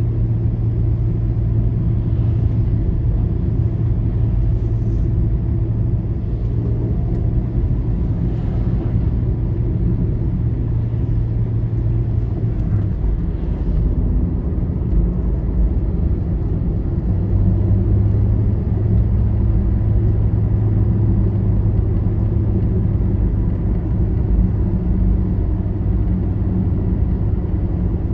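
Road vehicle travelling steadily along a highway: a continuous low rumble of engine and tyres with a droning hum that settles slightly lower in pitch about halfway through.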